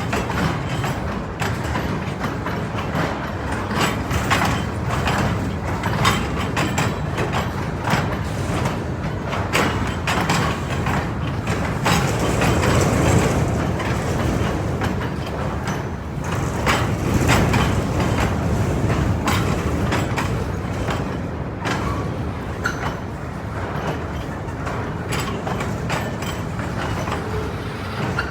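A freight train rolling past: a steady rumble of steel wheels on rail, with frequent sharp clicks and clanks, swelling louder twice near the middle.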